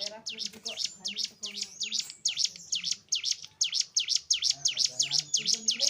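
Cigun (ciblek gunung, a mountain prinia) singing a long, rapid series of sharp, high chirps, about five a second.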